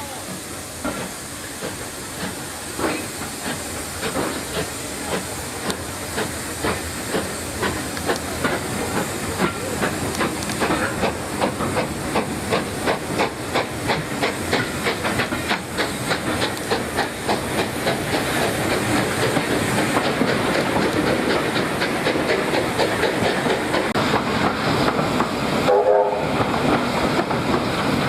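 Steam locomotive pulling away, its exhaust beats quickening and growing louder over a steady hiss of steam.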